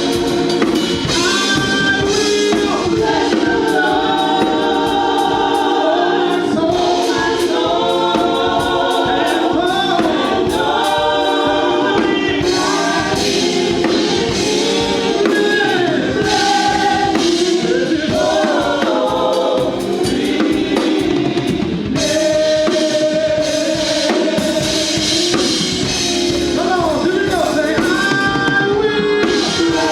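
Gospel worship song with a choir singing over drums and band accompaniment.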